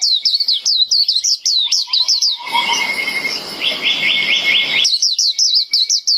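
White-eye singing: a fast series of high, down-slurred notes, about five a second, with a quicker, lower trill in between before the down-slurred notes return near the end.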